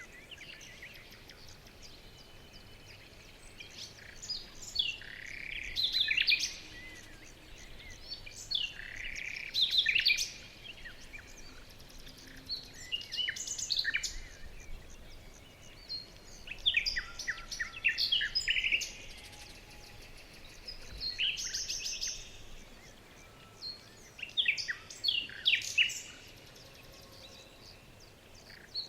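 Songbirds singing short phrases of chirps and trills, a new phrase every few seconds, over a faint steady hiss.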